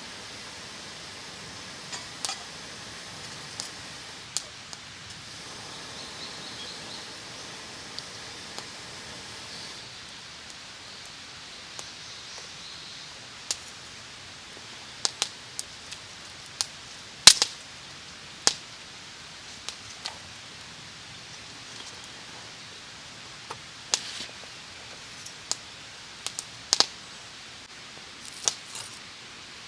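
Wood campfire crackling: irregular sharp pops and snaps over a steady low hiss, the loudest pop about halfway through.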